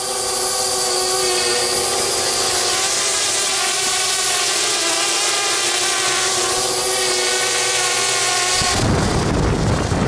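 Parrot Bebop 2 quadcopter's propellers and motors whining at a steady pitch while it flies. Near the end a loud rushing noise swells over it for a little under two seconds.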